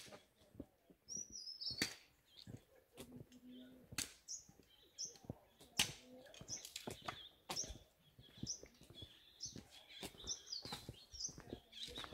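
Small birds chirping faintly in short, high calls, coming more often in the second half, with occasional sharp clicks.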